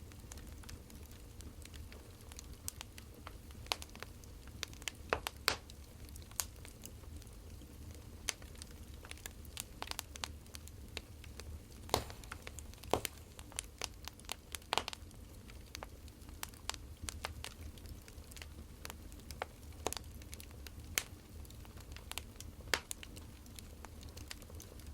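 Wood fire crackling: irregular sharp pops and snaps from burning firewood over a steady low rumble.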